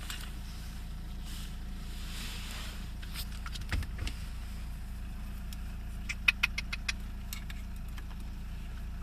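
Car engine idling with a steady low hum. There is a low thump about four seconds in, and a quick run of about six sharp light clicks around six seconds in.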